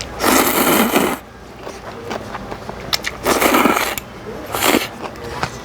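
A person eating spicy ramen noodles: two long, loud slurps and a short one near the end, with small chewing clicks between.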